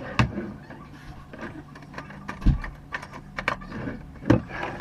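Scattered clicks and knocks of tools and parts being handled, with a sharp knock near the start, a heavy low thump about halfway, and another sharp knock near the end.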